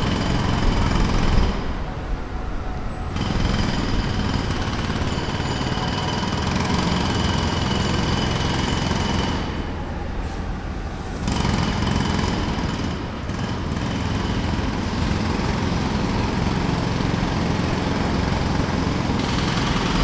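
Jackhammer breaking pavement in rapid continuous strokes. It stops briefly twice, about two seconds in and again about ten seconds in, then starts up again each time.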